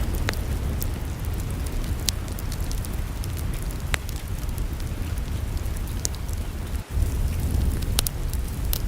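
Wood fire in a fireplace crackling: a steady low rumble with a sharp pop every second or two, and a momentary dropout about seven seconds in.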